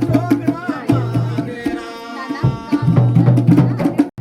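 Dhol drumming in a fast, even rhythm, with a steady low ringing pitch under the strokes. About two seconds in the drums break off for under a second while a held note carries on, then the drumming resumes and cuts out briefly near the end.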